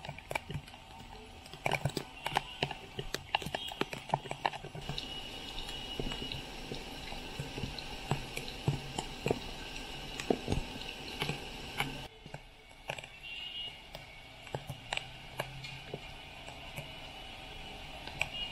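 Heavy rain falling on a flooded street, with drops splashing into standing water and many sharp small impacts. The sound drops in level about twelve seconds in.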